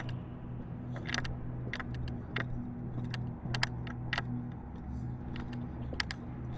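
Footsteps crunching at a walking pace over uneven ground, irregular sharp steps about every half second, over a low steady hum.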